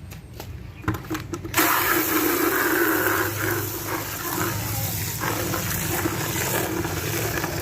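Water gushing from a hose into a bucket over a small dose of concentrated car shampoo, starting suddenly about a second and a half in and running steadily.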